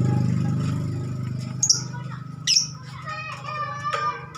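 A low steady hum that fades away over the first two seconds, then a caged pet bird calling: two sharp, high, downward-sweeping chirps followed by a short warbling run of notes.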